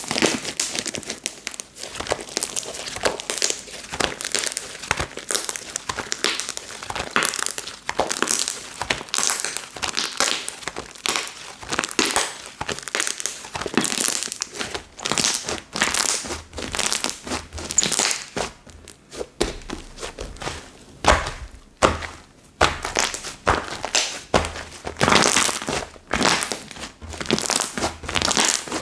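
Slime being squeezed, pressed and stretched by hand, giving a dense, irregular run of small crackles and sticky pops.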